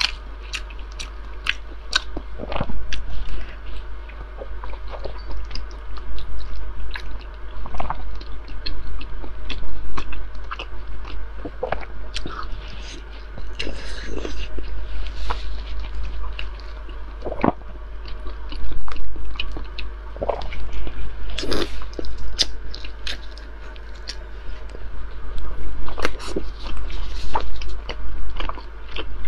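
Close-miked chewing and biting of braised Dongpo pork belly: wet mouth sounds with many short, sharp clicks, over a steady low hum.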